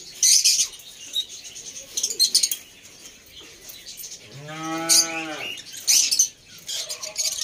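A cow moos once, a single call of about a second about four seconds in. Around it come short, high bursts of chirping from the cage birds.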